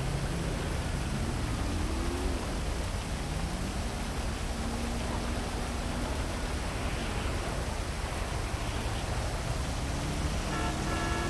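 Heavy rain falling over a city, a steady dense hiss, with traffic underneath: low engine tones rising and falling as vehicles pass, and a brief higher pitched sound near the end.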